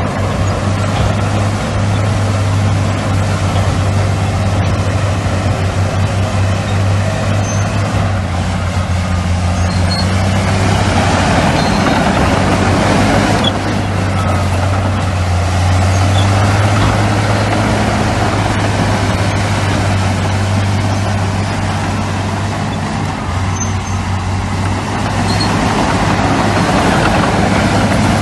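Heavy diesel earthmoving machinery, bulldozers and dump trucks, running steadily with a low engine drone. The machinery noise grows louder for a few seconds near the middle.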